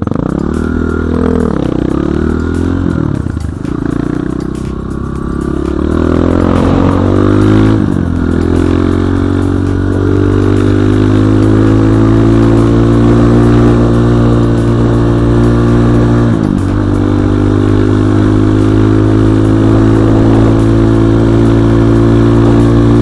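Enduro motorcycle engine under way, revs falling and rising in the first few seconds, then dipping briefly twice, as at gear changes, before holding steady at high revs.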